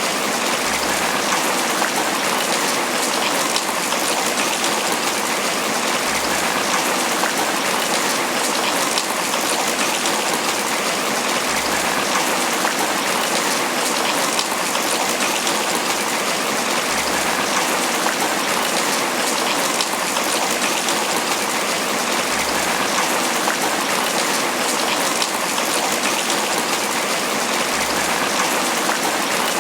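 Tropical rain falling steadily on banana leaves, a dense even patter of drops.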